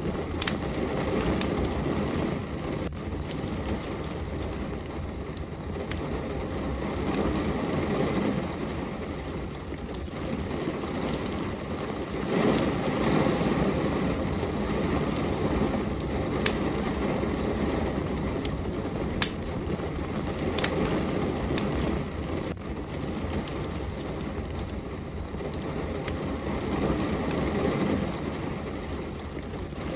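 Steady rain falling with a wood fire crackling, a low even hiss that swells and eases, with sharp pops from the burning logs every few seconds.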